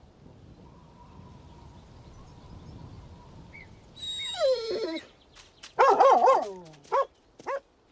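Cartoon collie voice: a falling whine about four seconds in, then a quick run of wavering yelps and two short yips near the end.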